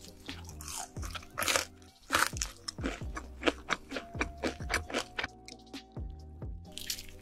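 Crispy fried chicken drumstick being bitten and chewed: a quick series of sharp, crackly crunches of the fried batter, over soft background music.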